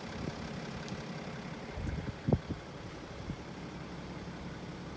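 A low, steady engine rumble, with a single short knock a little over two seconds in.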